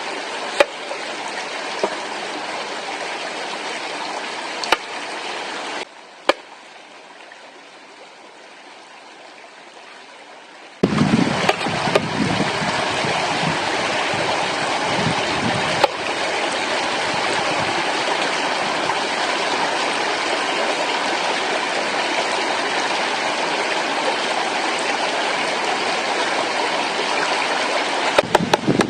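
Steady rush of a flowing stream, with a few sharp clicks. It drops to a quieter hush for about five seconds, then comes back louder.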